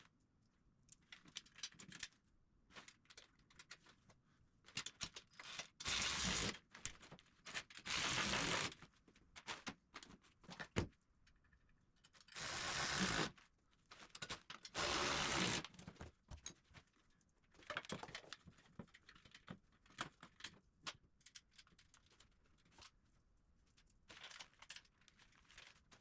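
Hand ratchet wrench clicking in short runs of about a second, five times, as bolts on a steel welding table frame are tightened. Scattered clinks and knocks of metal hardware fall between the runs.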